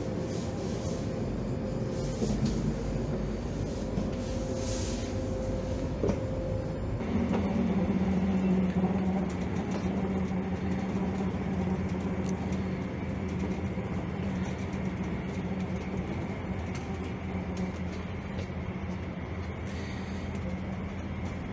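Running noise heard inside an SJ double-decker passenger train: a steady rumble with a few light clicks, joined about seven seconds in by a steady low hum and a higher whine that continue.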